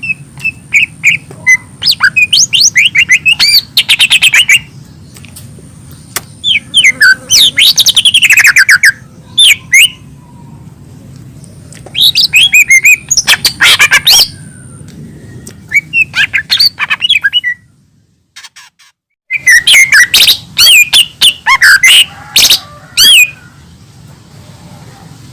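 Cucak ijo mini (green leafbird) singing in loud bursts of rapid, sweeping, high whistled and chattering phrases, with short pauses between bursts. The sound cuts out for about a second past the middle. A low steady hum runs underneath.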